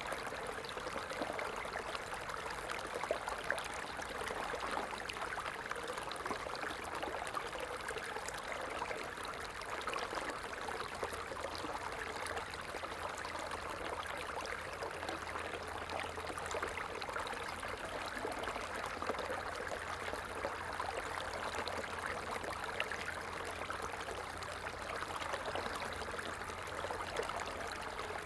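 Stream flowing steadily: a constant rush of running water with fine trickling detail.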